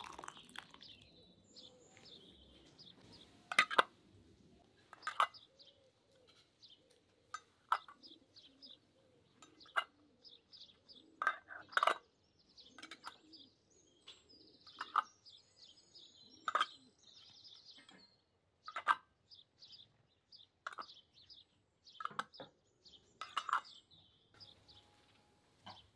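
Small birds chirping in short, sharp calls every second or two, with fainter twittering between them.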